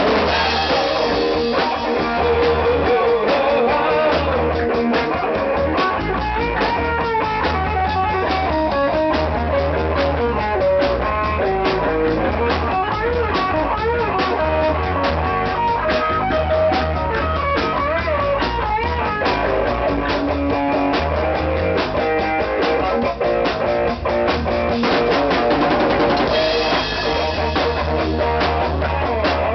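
Rock band's instrumental break: electric guitar playing a lead line with bent, wavering notes over bass guitar and a drum kit keeping a steady beat.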